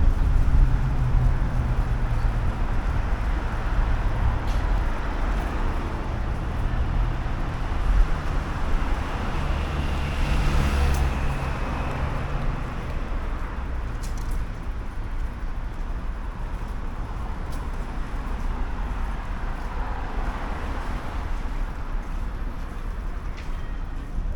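City street traffic: motor vehicles passing, with a steady low engine rumble that is loudest in the first half and eases off later.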